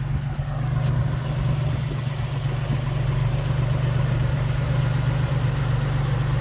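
Chrysler Hemi 265 straight-six engine of a Valiant CL Charger idling steadily.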